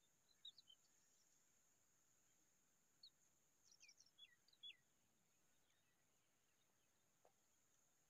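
Faint, high, short bird chirps, each a quick downward-sliding note: a few near the start and a quick run of about ten around the middle, over a steady faint high hiss.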